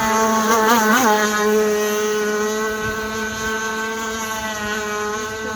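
Engine of a Rio51 Z gas-powered RC race boat running at speed: a steady high-pitched whine whose pitch wobbles twice about a second in, then holds steady with a slow slight fade.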